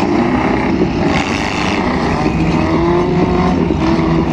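Several demolition-derby car engines running and revving at once, their pitches rising and falling over one another, with no pause.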